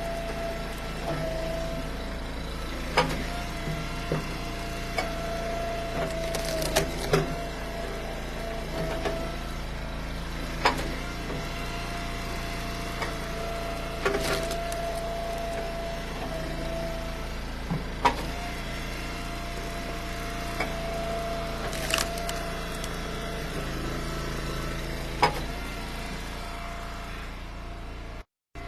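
Eastonmade Ultra wood splitter running with a steady hum while cherry and ash rounds crack apart under the wedge, about ten sharp splits spaced a few seconds apart.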